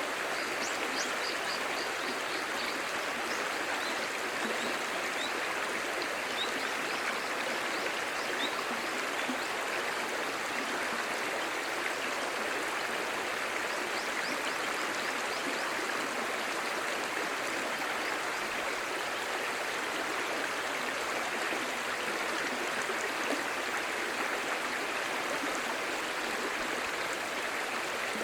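A clear-running stream babbling, a steady, even rush of water.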